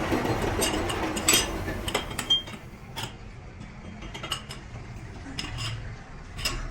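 Irregular metallic clinks and knocks from metal tools and parts being handled, the loudest about a second and two seconds in.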